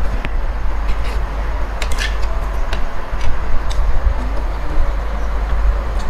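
Close-miked chewing of noodles over a steady low rumble, with a few light clicks of a fork and spoon against a ceramic plate, a cluster of them about two seconds in.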